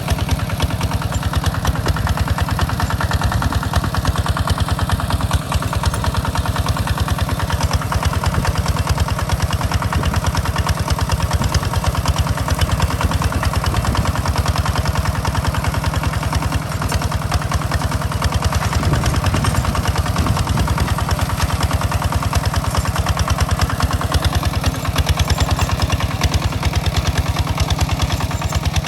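Hinota hand tractor's engine running steadily with a fast, even beat while pulling a plough.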